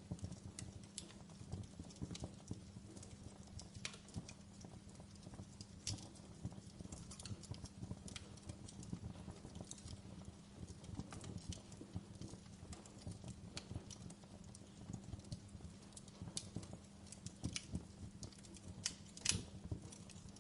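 Fire crackling: irregular sharp pops and snaps over a low steady rumble, with one louder pop near the end.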